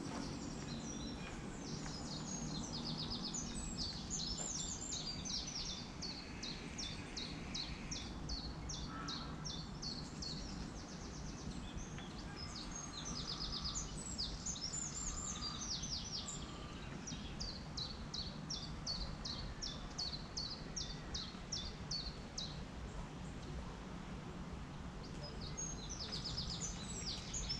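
Small birds singing in the trees: short, high chirps in quick runs, coming again and again, over a steady low background rumble.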